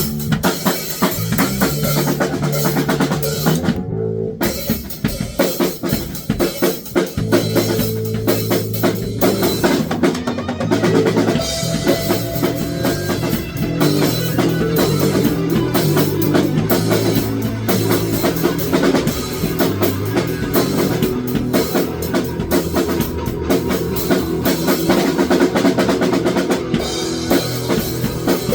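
A band playing music: a drum kit keeps a steady beat under guitar and a moving line of low notes.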